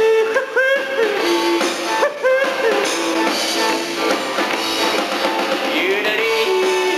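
A live country-rock band of guitars, bass guitar and drums plays a song, with a melody line of sliding, bending notes over the band.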